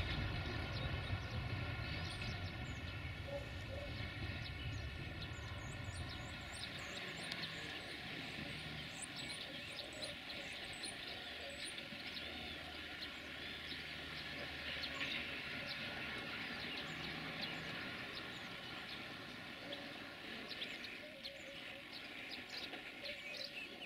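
Passenger coaches rolling away on the rails, their low rumble fading over the first several seconds. Afterwards a steady low hum carries on, with small birds chirping.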